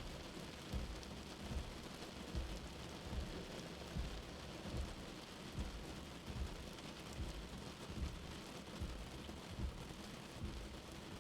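Steady rain with a soft, low heartbeat thumping evenly, a little more than once a second.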